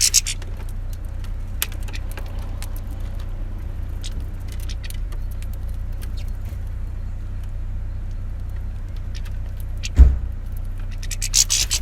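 Steady low rumble, like distant road traffic, with scattered faint ticks and one heavy thump about ten seconds in.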